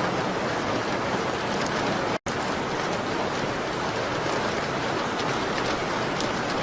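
Steady rain on a window, a dense even hiss with faint ticks of drops or fire crackle, from a mixed rain-and-fireplace ambience. The sound cuts out completely for a split second about two seconds in.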